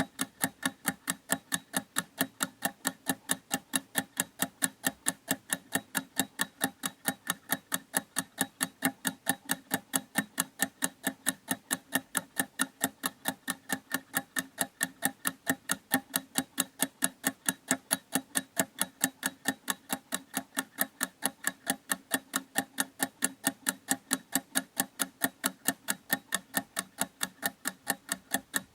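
Clock ticking in a fast, perfectly even rhythm of a few sharp ticks a second.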